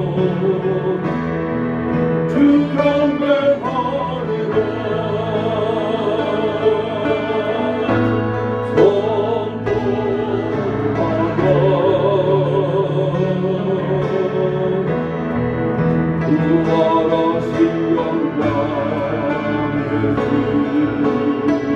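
Voices singing a hymn in church worship, with wavering sustained notes over a steady instrumental accompaniment.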